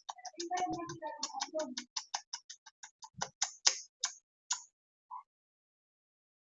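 A rapid run of sharp, even clicks, about five a second, that space out and stop about four and a half seconds in.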